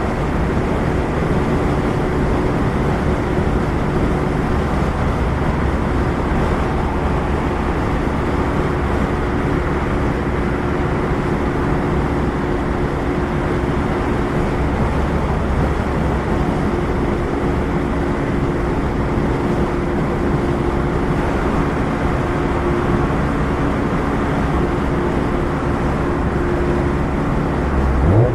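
2016 Mazda MX-5 Miata four-cylinder engine through a Goodwin Racing RoadsterSport race exhaust, running at a steady cruise with road and wind noise underneath. Right at the end the revs climb sharply.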